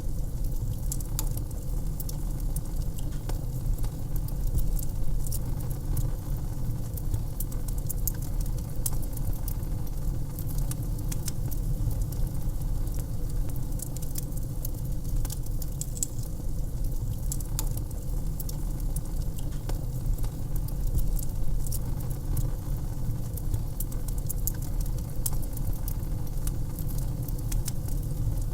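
Wood fire crackling in a fireplace: frequent sharp pops and snaps scattered irregularly over a steady low rumble of the flames.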